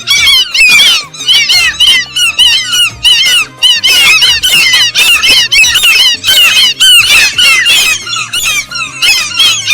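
Many birds calling at once in a dense, overlapping chatter of short squeaky calls, over background music.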